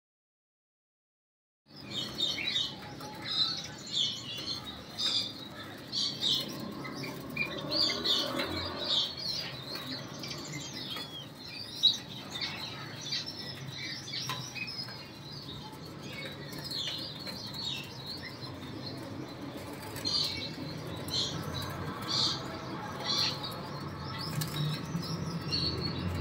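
Small birds chirping, many short high-pitched calls in quick irregular succession, starting about two seconds in, with one sharp click about halfway through.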